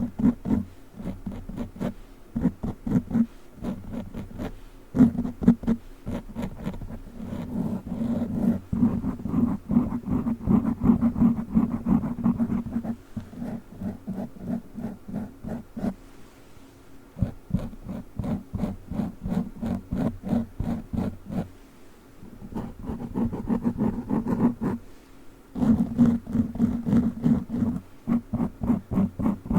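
Witch-finger tips scratching and tapping rapidly on a foam microphone cover: a dense run of muffled scratches, broken by a few short pauses.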